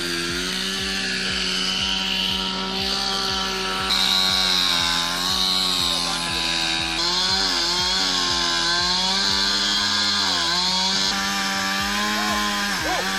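Two-stroke chainsaw running at high revs and cutting wood. Its pitch dips several times as it bogs in the cut and then recovers.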